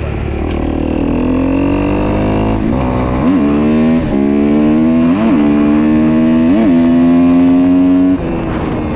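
2015 Kawasaki KX250F's fuel-injected four-stroke single running under load while ridden, its pitch climbing slowly and steadily with a few brief upward flicks, then falling off sharply near the end. The engine is running well now that its zero-clearance intake valves have been adjusted.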